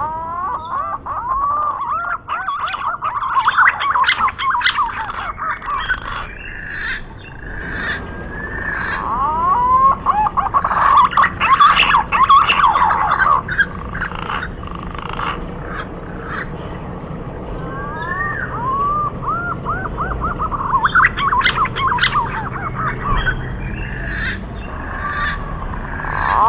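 Green pigeons (punai) calling as a lure recording: a chorus of overlapping whistled notes that bend up and down, thickest around the middle and again near the end.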